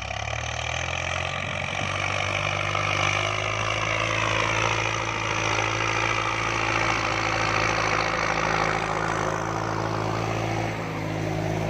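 Kubota MU5702 tractor's diesel engine running steadily while plowing a paddy field, coming in abruptly at the start.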